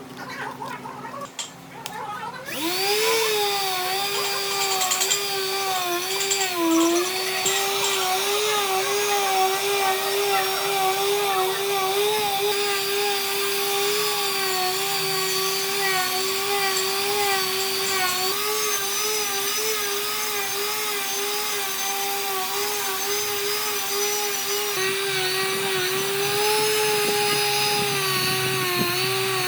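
Electric power tool starting up about two and a half seconds in, its motor rising quickly to speed and then running steadily, the pitch dipping slightly now and then as it bears on the wood.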